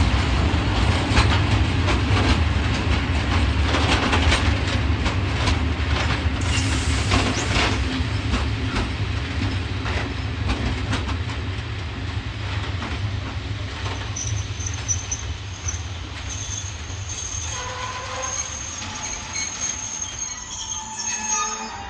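Freight train of loaded coal wagons rolling through a station behind an ET22 electric locomotive, the wheels clicking over rail joints and the noise fading as it goes. From about two-thirds through, thin high wheel squeal joins in.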